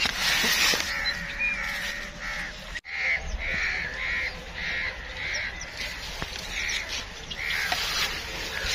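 A bird calling in a series of short, evenly spaced calls, about two a second, over a steady outdoor background. The sound drops out for an instant a little before three seconds in.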